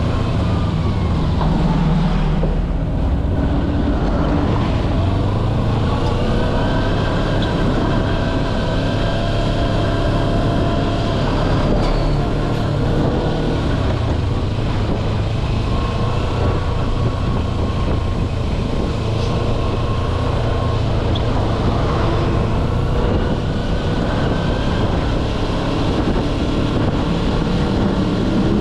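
Kawasaki Versys-X 250's parallel-twin engine running under way, its pitch rising and falling with the throttle.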